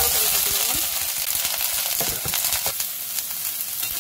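Salt-water-soaked broccoli florets sizzling in hot olive oil and garlic as they go into the pan, stirred with a wooden spatula. The sizzle jumps up loudly at the start and eases slightly, with a few knocks and scrapes of the spatula about two seconds in.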